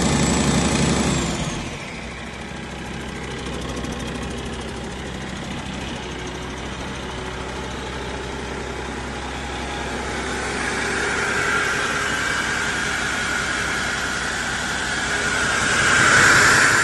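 2012 Cummins ISX15 15-litre inline-six diesel engine running on a test run, with a high whine over it. About a second in the revs drop, the whine falls away and the engine runs on much quieter. Near the end a hissing sound swells up and grows loud.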